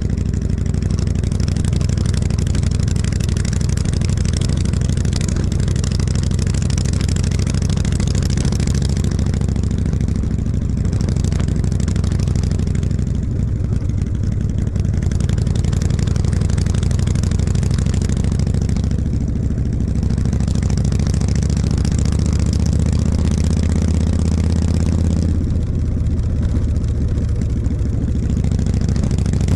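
Harley-Davidson V-twin engine running steadily on the move, with a hiss over it that thins out a few times.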